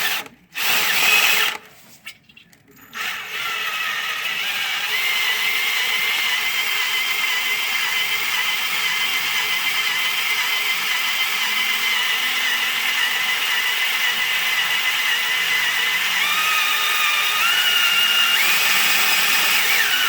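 Electric drill spinning the Ford 302 V8's oil pump through the distributor hole to prime the engine's oil system. Two short bursts, then a steady run of about seventeen seconds, its pitch shifting a few times near the end.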